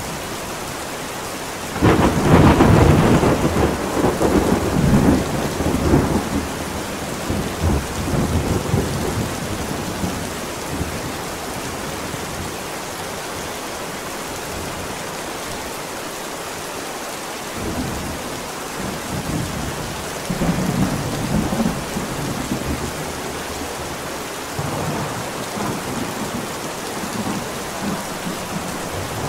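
Steady heavy rain with thunder: a loud clap about two seconds in that rolls on for several seconds, then softer rumbles of thunder later on.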